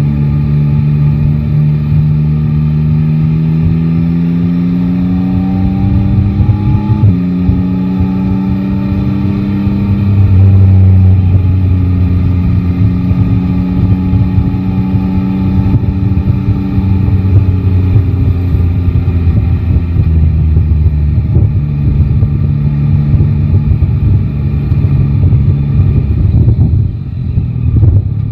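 Yamaha Tracer 9 GT's three-cylinder engine pulling up through the revs, with an upshift about seven seconds in, then holding a steady cruise with small throttle changes. The engine note eases off briefly near the end, and a low wind rumble on the microphone sits underneath.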